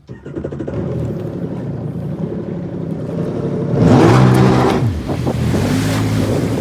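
Jet ski engine opened up suddenly and running under throttle. About four seconds in it revs higher with a rush of noise, then eases off.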